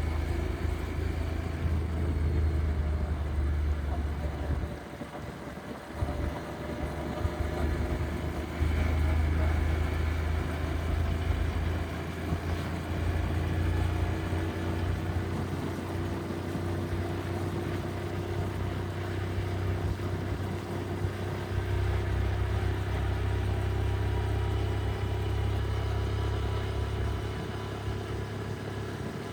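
Motorcycle engine running under way, with road noise. It eases off briefly about five seconds in, and its pitch climbs slowly through the middle as the bike gathers speed.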